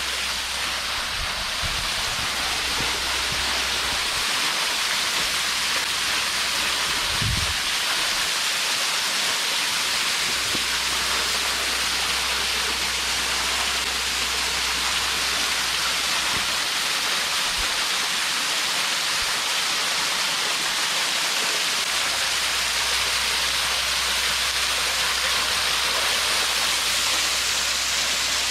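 Steady rush of a small waterfall's falling water, picked up by the bare GoPro Hero 8's own microphone, with a low thud about seven seconds in.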